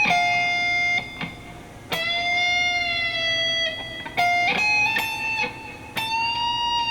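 Electric guitar playing a few sustained single notes, picked about every two seconds. Some notes are bent up in pitch: full-step string bends on the high strings.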